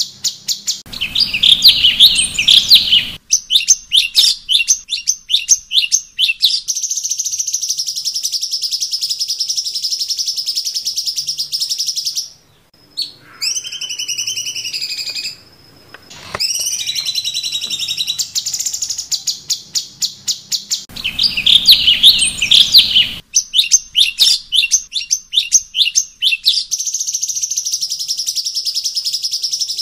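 Cucak cungkok singing: fast chattering trills and rapid repeated high chirps, broken about halfway through by a few clear, falling whistled notes. The same song phrase comes round again about twenty seconds later, as in a looped training recording.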